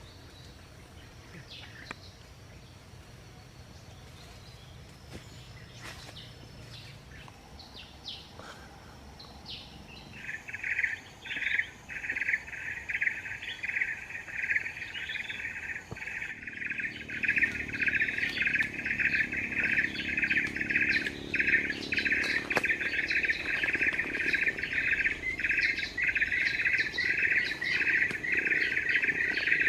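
A high, rapidly pulsing chirping trill starts about ten seconds in and carries on steadily, with faint scattered chirps and clicks before it.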